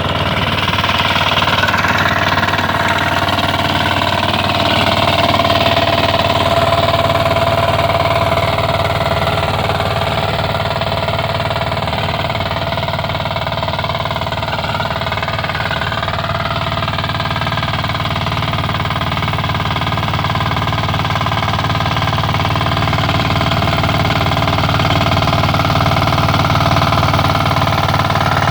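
Motor Sich walk-behind tractor engine running steadily under load while it drives a rotary tiller through soil, with a dense rattling rumble.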